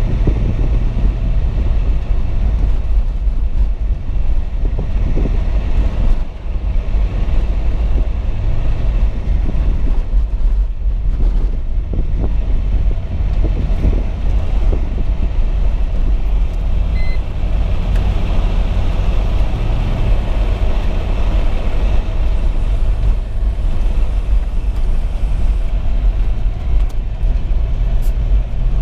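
Car being driven through deep snow, heard from inside the cabin: a steady low rumble of engine and tyres.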